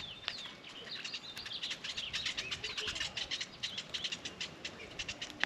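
Small birds chirping and calling at a bird feeder: many short, overlapping chirps that grow busier about a second and a half in.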